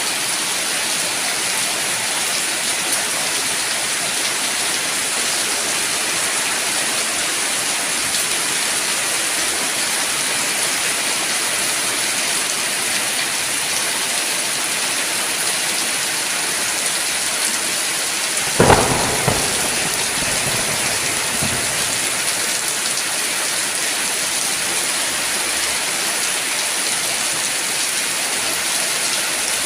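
Steady heavy rain with a single sharp thunderclap about two-thirds of the way through, trailing off in a few seconds of crackling rumble.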